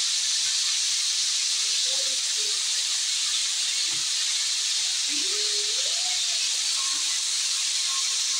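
Chicken necks frying in hot oil in a wok: a steady, loud sizzle.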